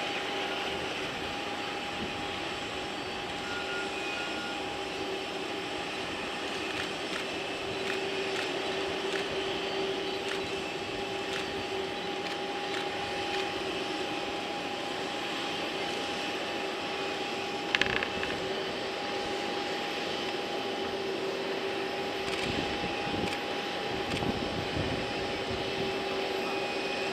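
Boeing 747-400 freighter's jet engines running at taxi power: a steady whine over a constant rush, with a short click about two-thirds of the way through.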